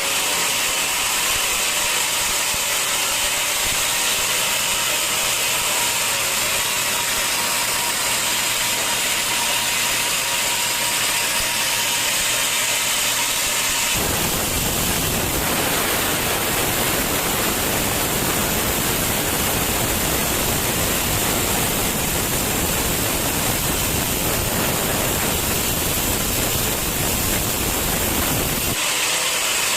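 Sawmill saw running through a log with a steady mechanical noise. The sound changes abruptly about halfway through, becoming fuller and deeper, and switches back near the end.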